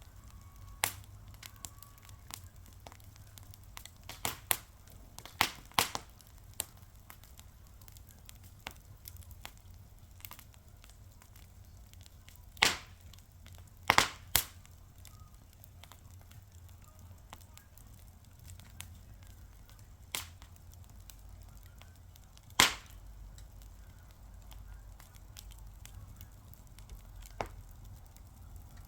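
Wood fire crackling: sharp pops and snaps at irregular intervals, a few much louder ones, over a low steady rumble.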